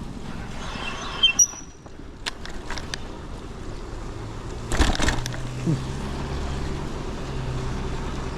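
Steady rushing road noise of a ride on wet pavement, broken by a few sharp clicks and knocks, the loudest just before five seconds in. From about four seconds in, a steady low hum joins.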